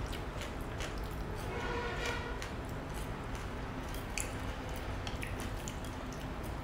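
Eating sounds: soft chewing of stir-fried water morning glory, with a few light clicks of chopsticks against the dishes about four to five seconds in.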